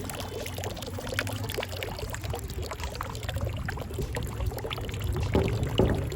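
Running water splashing and trickling, a dense patter of small splashes over a low rumble.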